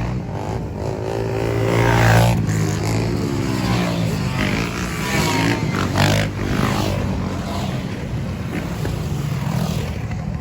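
Car engines running and revving, their pitch rising and falling, with the loudest revs about two seconds and six seconds in.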